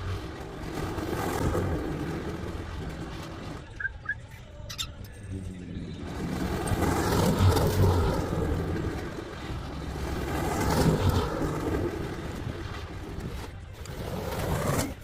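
Lawn mower engine running steadily, dropping off for a couple of seconds about four seconds in, then loud again. A bird chirps faintly during the quieter moment.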